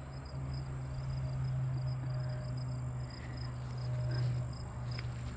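Insects chirping: a steady high buzz with a short chirp repeating a few times a second, over a low steady hum.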